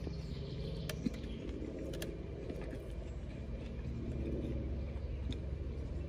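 A person chewing a mouthful of fried chicken burger, with a few short clicks, over a steady low hum inside a car.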